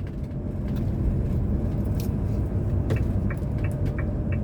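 A motorhome being driven, heard from inside the cab: a steady engine and road rumble. About three seconds in, the turn indicator starts ticking, about three ticks a second.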